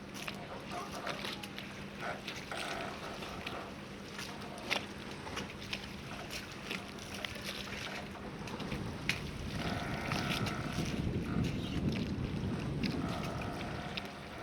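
Harbour ambience: a steady low hum and scattered light knocks and clicks, then a louder low rushing swell of water and boat noise that builds about two-thirds in and fades near the end.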